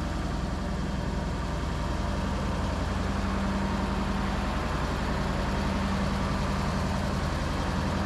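Heavy diesel engine of farm machinery running steadily at a constant speed, a low, even hum with no change in pitch.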